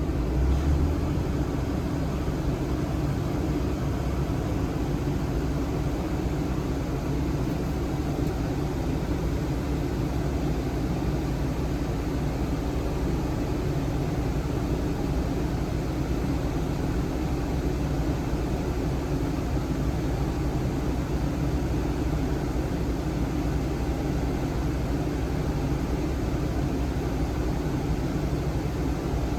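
Suzuki Spacia (MK53S) engine idling steadily, with a brief louder low rumble in the first second.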